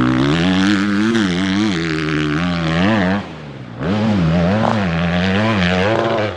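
Motocross bike engine revving in repeated throttle blips, the pitch rising and falling about once or twice a second, with a short lull about halfway through before the revving resumes.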